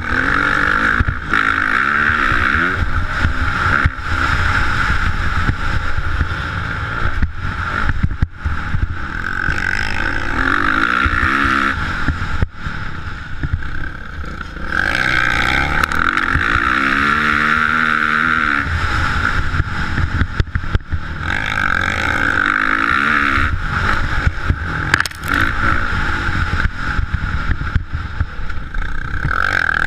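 Motocross dirt bike engine running hard as it is ridden, revving up and falling back over and over with short dips between.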